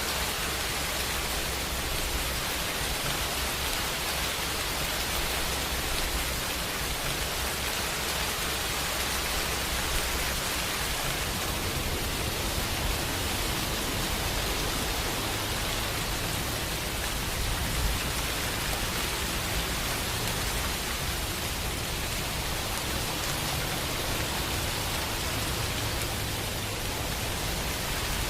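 Steady rain falling, an even hiss, with a low rumble underneath that shifts about a third of the way through.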